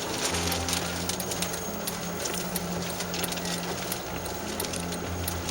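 Car engine and road noise heard from inside the cabin of a moving car, a low hum that steps up and down in pitch under a steady rush of wind and rain, with many scattered light ticks.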